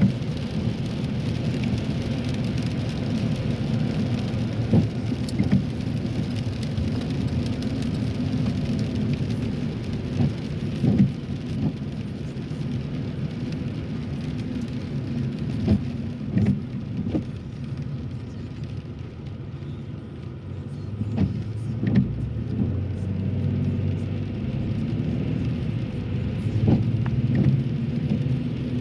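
Road noise heard inside a moving car on wet roads: a steady low rumble of tyres with the hiss of water, broken by scattered light taps and knocks.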